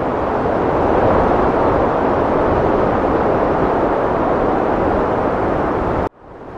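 Heavy wind blowing in a dense, steady rush that swells slightly about a second in, then cuts out suddenly about six seconds in and quickly fades back up.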